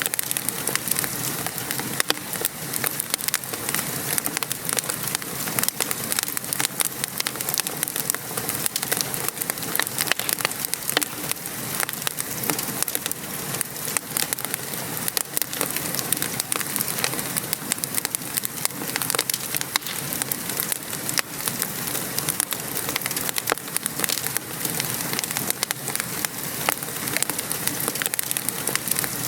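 Steady rain pattering, mixed with a wood fire crackling in a fireplace and giving many small sharp pops.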